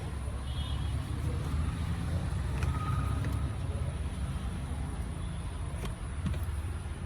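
Car engine idling with a steady low rumble, a faint high whine running over it.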